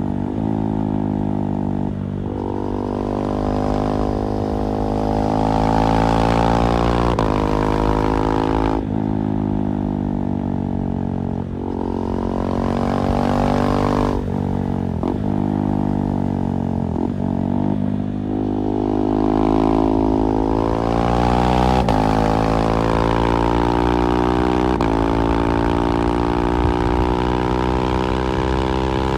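KTM 390 Duke's single-cylinder engine through an IXIL slip-on exhaust, ridden hard through the gears. The revs climb, then drop abruptly at each quick upshift, several times over. Around the middle the pitch falls away as the bike slows, before it pulls up through the gears again.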